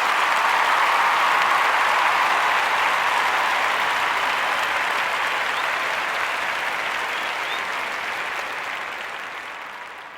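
Crowd applause, fading away over the last few seconds.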